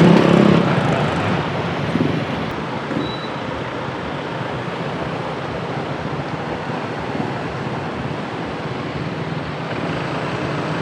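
Street traffic: a motorbike engine passes close at the start and fades within about a second, leaving a steady wash of traffic noise.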